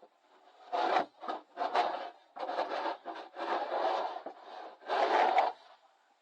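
Snow shovel scraping over packed snow and ice, about six strokes one after another.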